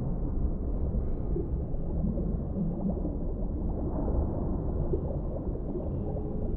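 Underwater ambience: a steady low rumble of water with small bubbles gurgling and popping through it.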